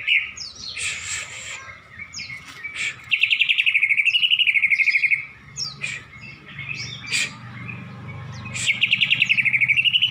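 A caged pet bird singing two long, fast rattling trills of about two seconds each, with short chirps between them. The trills are long: the "panjang" song the keeper is listening for. A low hum runs underneath in the second half.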